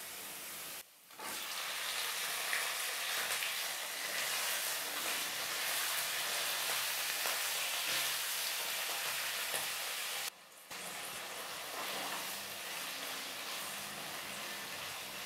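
Raw chicken pieces sizzling in hot mustard oil with browned onions in a kadhai, stirred with a wooden spatula. A steady frying hiss that cuts out briefly twice, about a second in and about ten seconds in.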